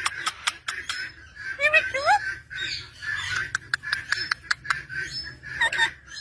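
Parrots calling: short rising squawks about two seconds in and again near the end, among runs of sharp clicks, over a steady high-pitched chirring.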